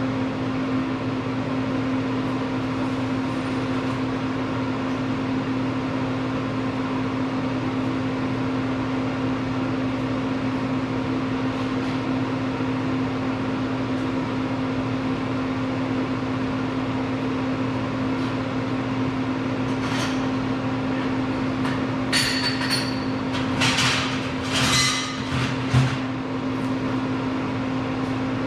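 Steady electrical machine hum, with a short run of sharp metallic clanks and knocks near the end.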